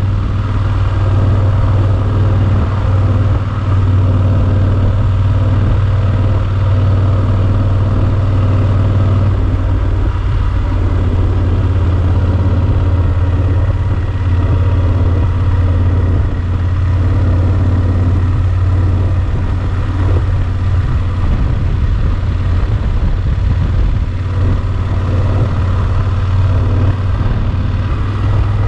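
Yamaha Super Ténéré XT1200's parallel-twin engine running at a steady speed, a deep even drone.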